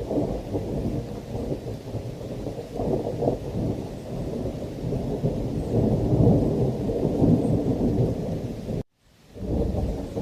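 Thunderstorm: a continuous low rumble of rolling thunder over steady rain, swelling loudest past the middle. Just before the end the sound cuts out to silence for a moment, then comes back.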